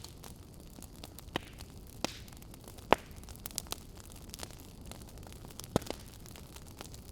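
Wood fire crackling in a fireplace: a steady low hiss broken by scattered sharp pops, the loudest about three seconds in.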